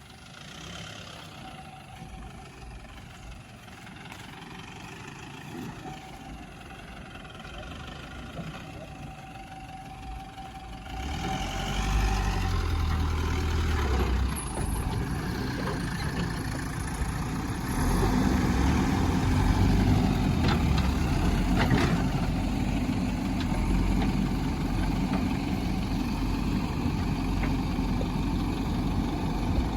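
Heavy diesel engine running steadily, much louder from about eleven seconds in, with a quieter mixed background before that.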